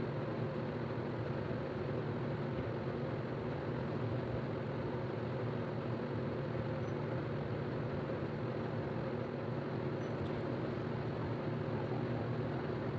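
Steady machine hum over an even hiss, unchanging throughout.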